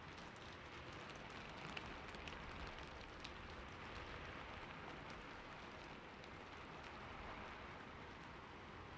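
Steady, quiet rain falling on a roof, with scattered individual drop ticks.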